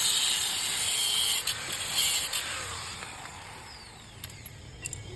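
Workshop power tool at work on a scooter silencer: a high hissing whir that fades away over about three seconds, followed by a few light clicks.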